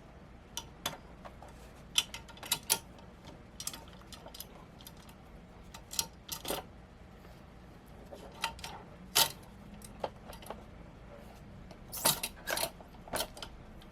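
Scattered sharp metallic clicks and clinks of a clamp-style monitor adapter bracket being handled and clipped onto a monitor, irregular, with the loudest clacks near the start, middle and end.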